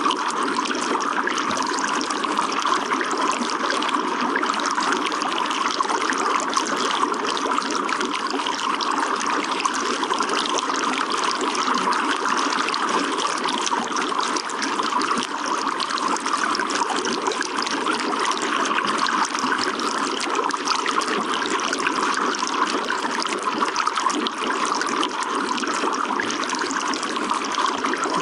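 Water running and trickling steadily, an even, unbroken splashing flow.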